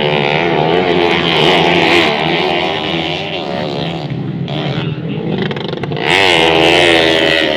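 Modified underbone motorcycles racing on a motocross track: small engines revving up and down as they are ridden, and one gets suddenly much louder about six seconds in.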